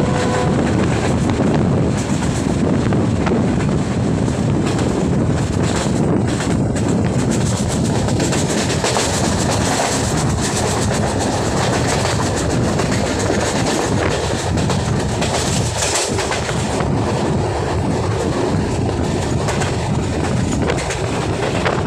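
Loud passenger train passing at speed, its wheels clattering over the rail joints in a steady rushing rumble.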